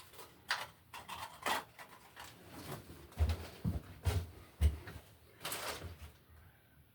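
Handling noise: scattered clicks and light knocks, several dull thumps in the middle, and a short rustle near the end, like objects or tools being picked up and set down.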